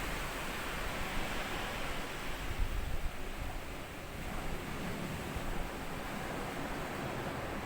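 Small sea waves washing up on a sandy beach and drawing back, a steady hiss that swells briefly in the first few seconds.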